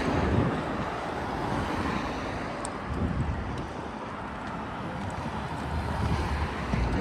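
Outdoor ambience: a steady rushing noise with wind gusting on the microphone as low, uneven rumbles.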